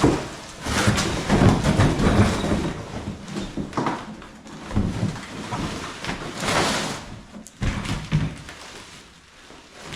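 Exhaust pipe sections and their packaging being handled: irregular rustling and scraping with knocks and clunks that come and go.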